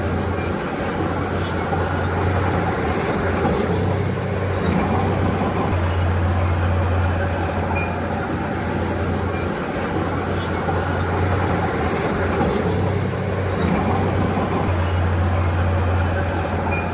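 Crawler bulldozer's diesel engine working, a steady low drone that swells and eases every few seconds as the load comes on and off, with faint scattered high clinks.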